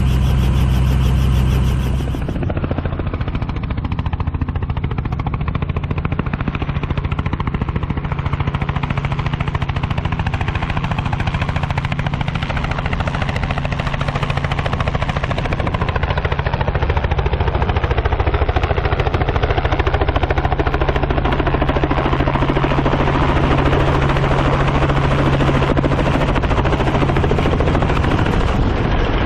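Helicopter starting up: engine running and rotor spinning up with a rapid chopping beat, growing louder and fuller about halfway through. The sound changes abruptly about two seconds in.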